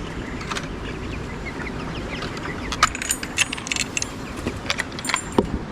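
A run of quick metallic clinks and jangles from about three seconds in. Under it is the steady low hum of broiler-shed fans, with faint chirping of broiler chickens.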